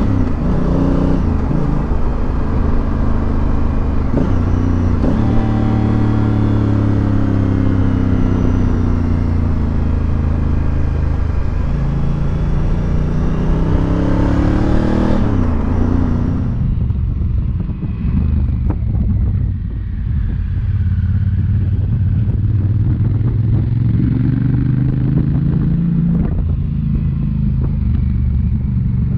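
Motorcycle engine running under way, its pitch rising and falling several times with throttle and gear changes, over a steady rush of wind noise. About sixteen seconds in, the high hiss drops away and the engine carries on more evenly at a lower pitch.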